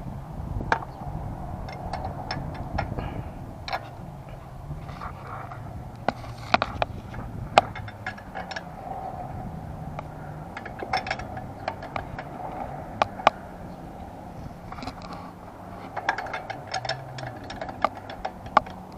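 Hand tools and metal parts clicking, clinking and scraping at irregular intervals, as in mechanical work, over a steady low hum.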